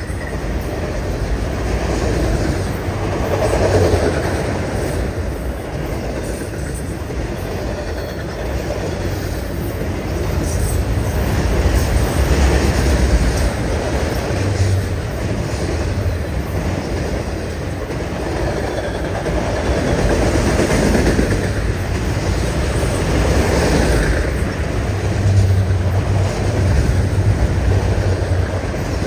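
Autorack freight cars rolling past close by: a continuous rumble and rattle of steel wheels on rail, swelling and easing every few seconds.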